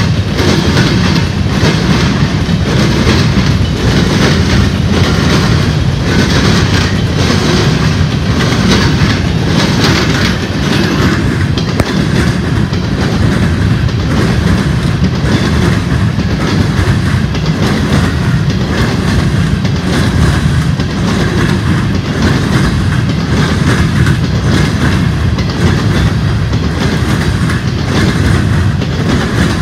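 Norfolk Southern freight train of covered hopper cars rolling steadily past: a loud, continuous rumble of steel wheels on rail with a repeated clickety-clack of wheels over the track.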